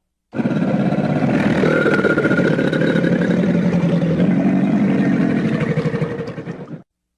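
Sarcosuchus creature sound effect: one long, low, rough rumbling growl. It starts abruptly just after the start, holds for about six seconds, and tapers off near the end.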